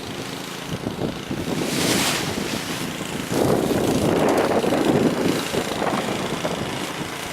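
Strong wind buffeting the microphone, with a hissing gust about two seconds in and heavier rumbling buffeting from about three seconds in.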